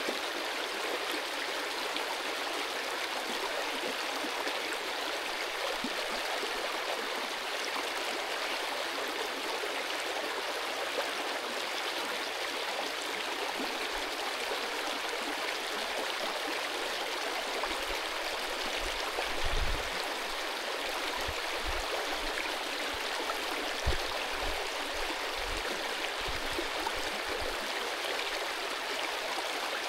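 Mountain stream rushing over stones, a steady even rush of water. A few soft low bumps break in during the second half.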